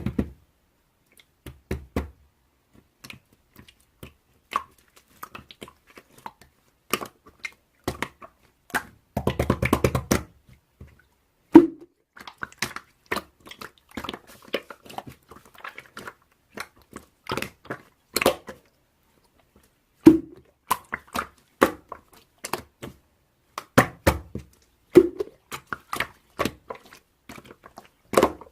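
Slime being squeezed, poked and stretched by hand, making irregular sharp clicks and pops, with a dense run of crackling pops about nine seconds in.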